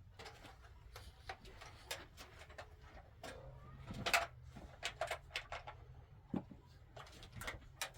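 Irregular light clicks and knocks, a dozen or so scattered over several seconds, the loudest about halfway through.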